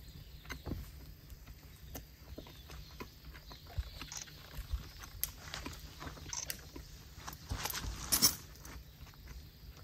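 Person chewing a mouthful of hot dog in a baguette roll: scattered soft mouth clicks and crunches, with a louder crackle about eight seconds in.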